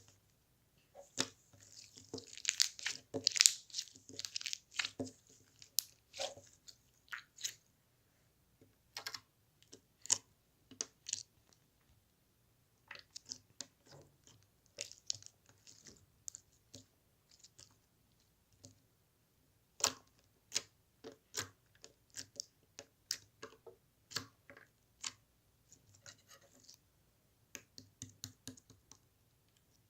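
Irregular close-up clicks, crackles and scratchy handling noises, thickest in a dense crackly run a second or two in, then sparser single clicks with short gaps.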